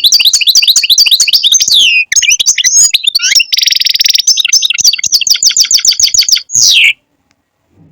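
European goldfinch singing: a fast, twittering run of chirps with a short buzzy rasp midway, ending in a falling note about seven seconds in.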